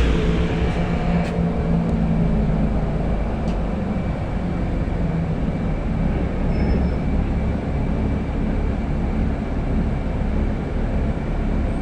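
City bus running, heard inside the cabin: a steady low engine rumble with road noise.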